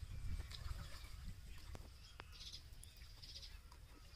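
Faint outdoor ambience: a low steady rumble with a few short, high bird chirps about two and a half and three and a half seconds in, and scattered soft clicks.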